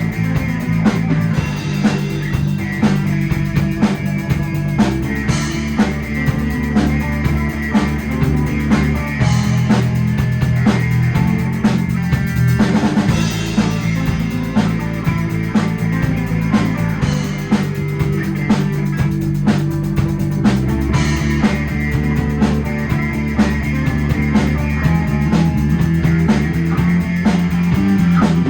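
Instrumental break of a rock song: a drum kit keeps a steady beat with snare and bass drum over a sustained bass line and guitar, with no singing.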